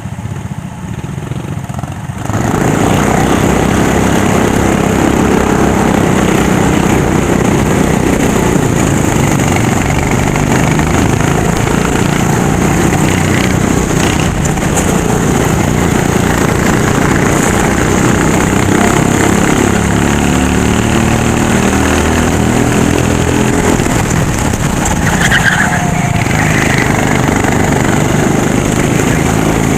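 Racing kart engine at full throttle, its pitch rising and falling as it speeds up and slows down. It jumps from a lower level to loud about two seconds in.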